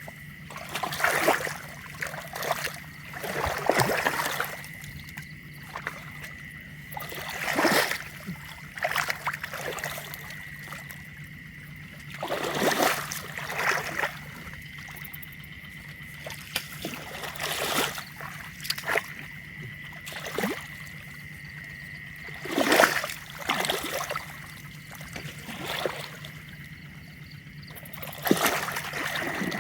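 Water splashing in irregular bursts, a dozen or so short splashes a second or more apart, as the water is worked by hand or foot to catch fish in a shallow canal.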